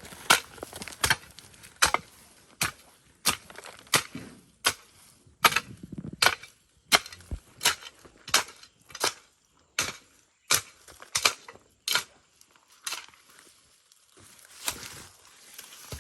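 Long-handled hoe chopping into soil and weeds, about eighteen sharp strokes at a steady working pace of roughly three every two seconds, with a short pause and one softer stroke near the end.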